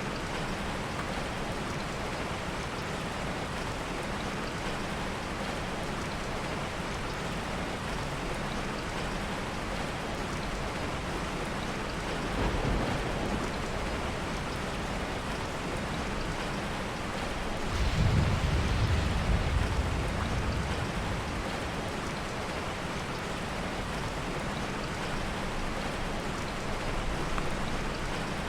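Steady heavy rain, with two low rumbles of soft thunder: a short one about halfway through and a longer, louder one a few seconds later.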